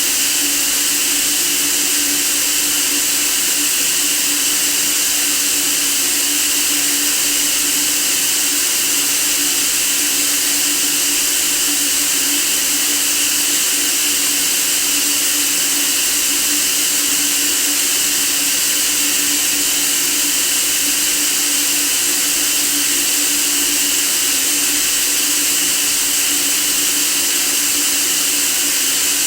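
Steady white noise: an even, unchanging hiss, strongest in the treble, with a faint low hum beneath it.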